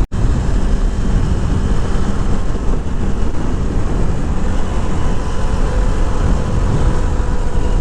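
Kawasaki Z400's parallel-twin engine running at a steady pace on the move, under a dense rumble of wind on the microphone. The sound drops out for an instant right at the start.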